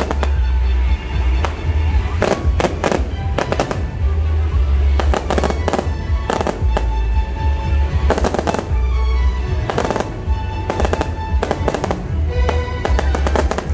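Aerial fireworks going off in quick, irregular clusters of sharp bangs and crackles, over loud music with a heavy bass.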